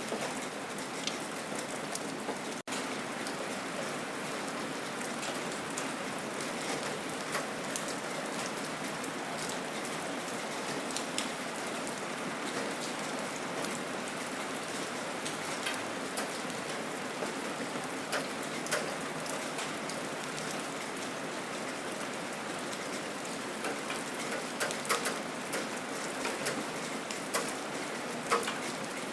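Steady gentle rain: an even hiss with scattered sharper drop ticks. It cuts out for an instant about two and a half seconds in.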